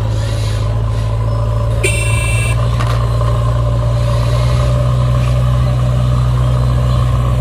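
Steady low drone of a heavy vehicle's engine running, with a brief high-pitched horn toot about two seconds in.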